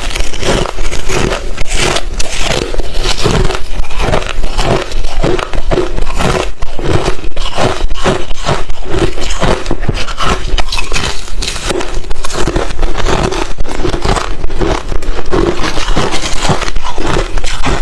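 A person chewing crushed, refrozen ice chips close to the microphone: a continuous run of loud, crisp crunches, several a second, with no break.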